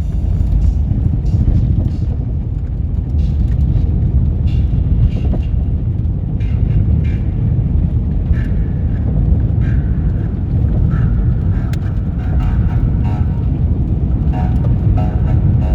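A car driving on a gravel road: a steady low rumble of tyres and engine, with scattered light ticks over it.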